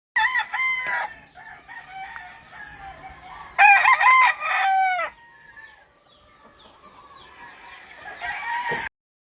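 Game roosters crowing: loud crows right at the start and again about three and a half seconds in, fainter crowing in between, and another crow near the end that cuts off suddenly.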